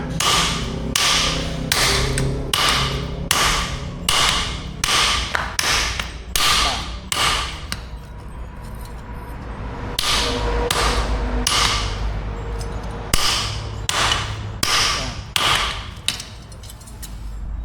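Blacksmith's hammer forging steel for an axe, striking at a steady pace of about two blows a second. The blows pause for about two seconds midway, then resume, over a steady low hum.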